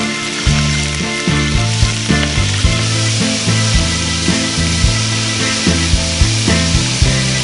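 Whole chicken sizzling and frying in hot oil in an aluminium pot as it browns, a steady dense crackling hiss. Background music with a steady beat plays underneath.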